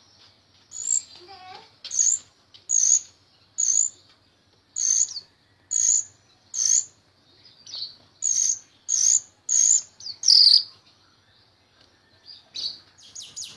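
Jalak rio-rio starling singing: a string of short, sharp, high notes repeated about once every three quarters of a second, then after a brief pause a quick run of notes begins near the end.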